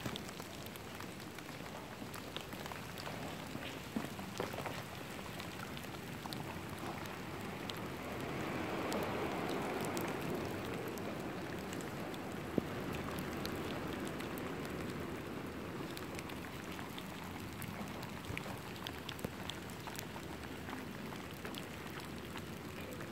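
Steady patter of falling precipitation on the ground and leaves: a soft hiss with many scattered light ticks of drops or small hail pellets landing, swelling a little around the middle.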